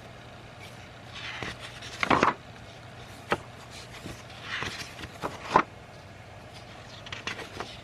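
Paper rustling as sketchbook pages of old drawings are handled and turned, with a few sharp clicks, over a faint steady low hum.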